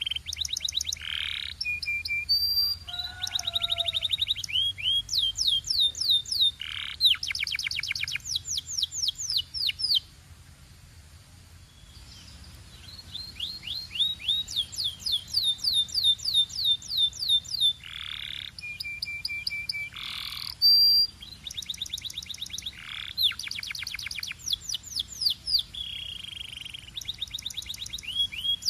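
Domestic canary singing: fast trills of rapidly repeated high notes mixed with short held whistles, broken by a pause of about two seconds a third of the way through.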